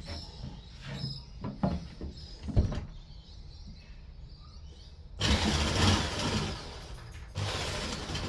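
A few knocks and clatters of handling, then about five seconds in an electric power tool starts and runs loudly in two bursts, the second beginning near the end.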